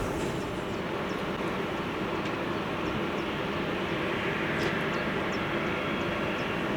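Steady jet noise from a landing Embraer E190 airliner's twin GE CF34 turbofans, an even rushing sound, with a few faint short high chirps over it.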